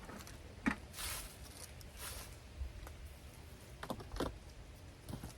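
Kitchen items being handled: a sharp clunk, two short rustling swishes, then a few light knocks.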